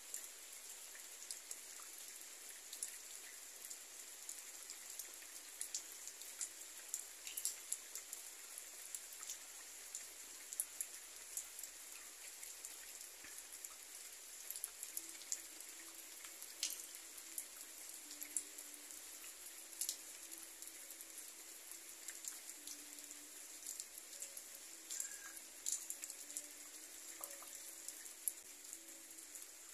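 Rain falling on a bare dirt yard: a steady hiss with many sharp individual drop hits scattered through it.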